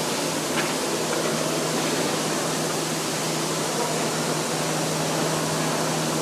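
Subway station ambience: a steady rushing noise with a constant low hum underneath.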